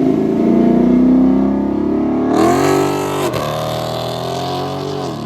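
A car engine revving hard as it accelerates away, getting much louder about two seconds in. Its pitch climbs and then dips sharply twice, once around the middle and once near the end.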